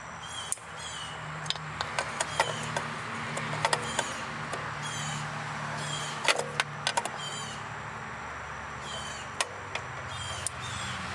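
Metal tools clicking and tapping as vice grips work a stuck small bolt loose on a Mazda Miata engine, in many sharp separate clicks. Short high chirps that fall in pitch come and go behind them.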